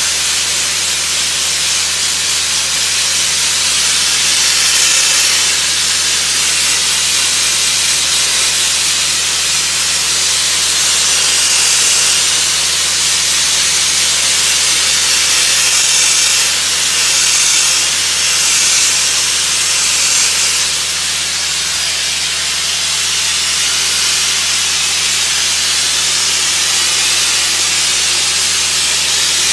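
Sandblasting nozzle hissing continuously as the abrasive stream strips antifoul paint from a yacht hull, the hiss swelling and easing slightly now and then over a faint low hum.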